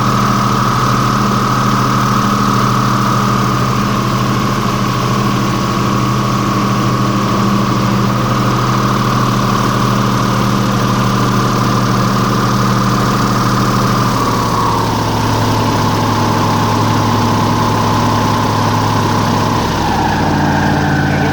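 Airboat engine and propeller running steadily. The pitch steps down about two-thirds of the way through and again near the end as the boat throttles back.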